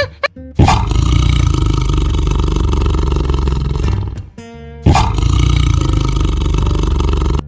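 Lion roaring: two long roars, the first starting just after the start and the second about five seconds in.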